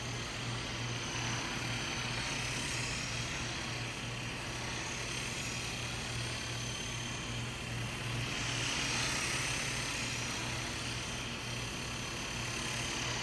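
Sky Rover toy RC helicopter in flight: the steady buzz of its small electric motors and whirring rotor, growing louder for a few seconds about eight seconds in.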